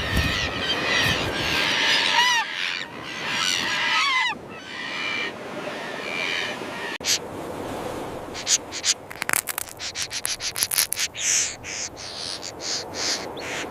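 A common tern colony calling: many harsh, overlapping calls, some with a falling glide. About halfway through, this gives way to a quick run of short, sharp sounds.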